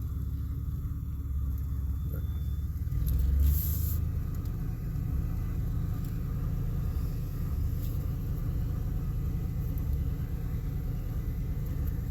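Chevy 4.3 V6 truck engine running with a low, steady rumble as the truck creeps along in low-range four-wheel drive, with a brief louder burst of noise about three and a half seconds in.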